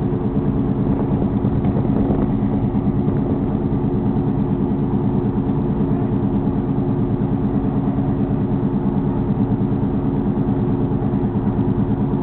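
Crew boat's engines running steadily, a constant drone with a fast, even throb.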